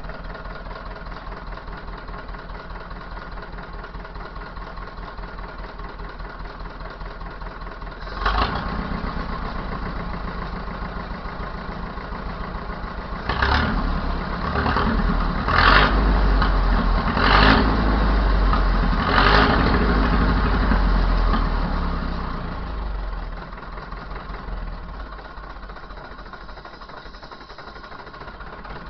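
Fordson Major E1A tractor's four-cylinder diesel engine idling steadily, then revved up about eight seconds in. It is blipped harder several times around the middle and settles back to idle for the last few seconds.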